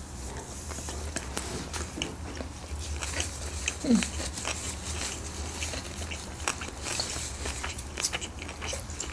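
People chewing and biting into sushi rolls, with many small wet clicks and crunches of mouth sounds, over a steady low hum. A short falling hum from one of the eaters about four seconds in.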